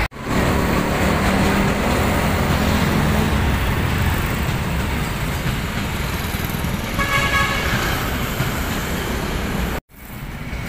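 Locomotive-hauled passenger train rolling past with a steady rumble and a low engine drone. About seven seconds in, a horn sounds briefly.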